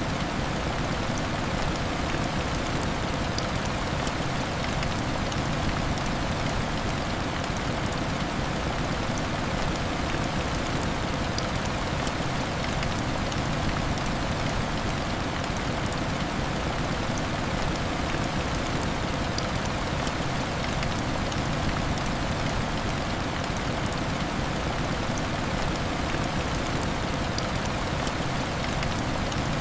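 Heavy rain hitting window glass, a steady dense hiss with faint scattered ticks of drops.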